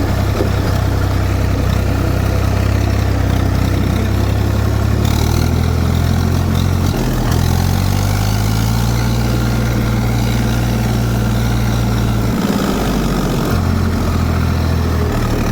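Zetor 4911 tractor's four-cylinder diesel engine running, its pitch stepping up and down a few times as the revs change.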